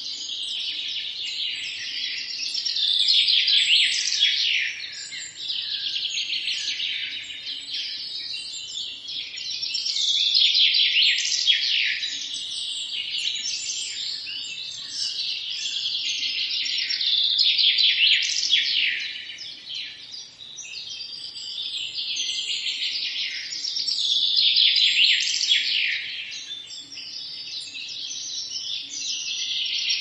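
Songbirds singing continuously, with rapid chirps and short falling trills that swell and fade every few seconds.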